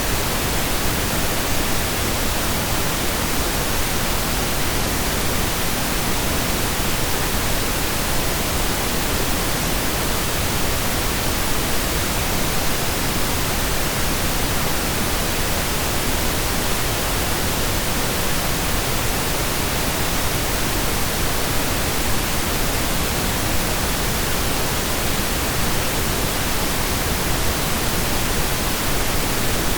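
Steady synthesized pink noise, a constant even hiss spread across the whole range like steady rain, with no changes.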